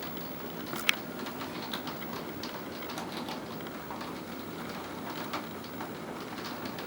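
Rain falling steadily, with irregular ticks and taps of drops landing close by and one sharper tap about a second in.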